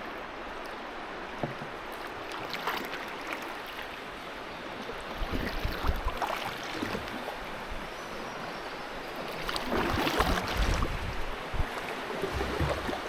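River water rushing around a canoe in moving current, with a rougher, louder stretch of splashing about five seconds in and another around ten seconds in.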